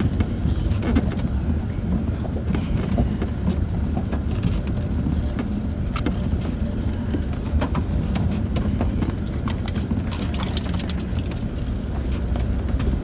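Land Rover Discovery 4 heard from inside the cabin while crawling over a rough, rocky track: a steady low rumble of engine and tyres, with scattered knocks and rattles as the suspension and cabin are jolted over stones.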